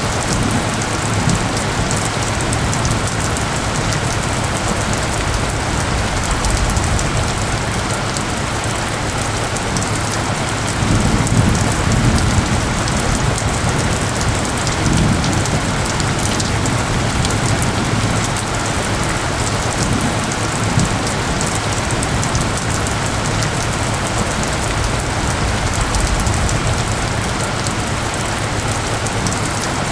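Steady heavy rain pattering on surfaces, with low rumbles of distant thunder swelling up a few times around the middle.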